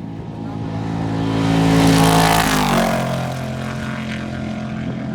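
Off-road race truck engine passing at speed. It grows to its loudest about two seconds in, then drops in pitch as it goes by, and the engine is still heard running steadily afterward.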